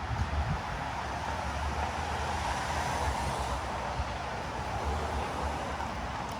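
Steady city street traffic noise: a continuous low rumble of vehicles with a steady hiss over it.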